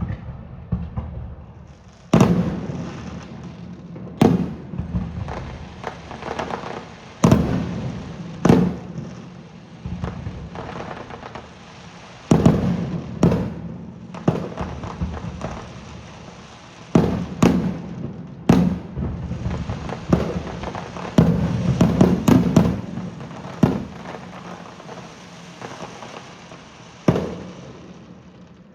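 Aerial fireworks shells bursting overhead: sharp bangs at irregular intervals, each trailing off in a rumbling echo, with a quick run of several bangs about three-quarters of the way through.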